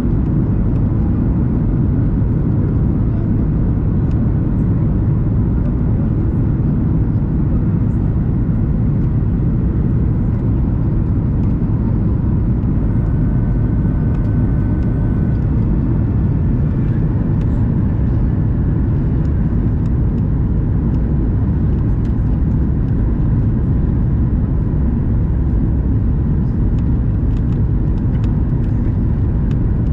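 Boeing 737 MAX 8 cabin noise on descent toward landing: a steady, deep rumble of engines and airflow heard inside the cabin.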